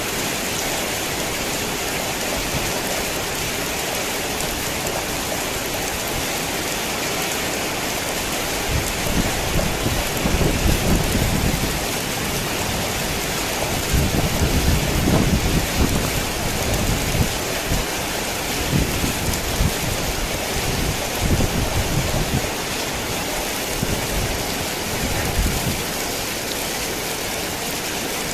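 Heavy rain falling in a steady hiss, with thunder rolling in uneven deep swells from about a third of the way in until near the end.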